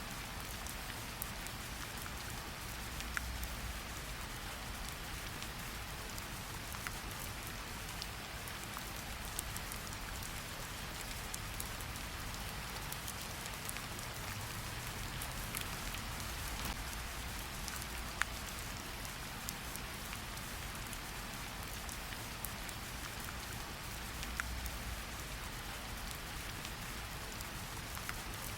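Steady rain hiss mixed with a fireplace's scattered sharp crackles and pops, the sharpest about eighteen seconds in. A faint low rumble swells now and then beneath it.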